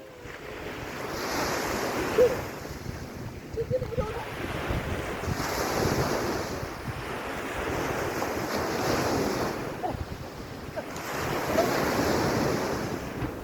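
Small waves breaking and washing up on a sandy beach, the surf swelling and fading about four times, every three seconds or so, with wind rumbling on the microphone.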